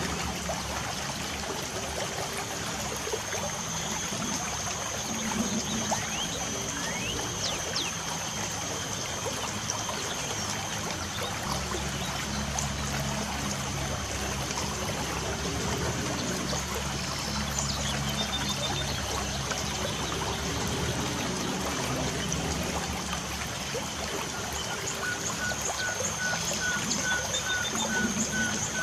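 Light rain falling steadily with a trickling, running-water sound, while birds chirp. A steady high whine runs through it, and near the end a bird repeats one short note about three times a second.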